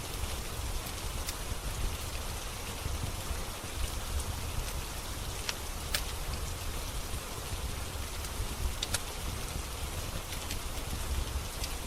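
Steady rain falling, with a low rumble beneath it and a few scattered sharp pops of a crackling wood fire.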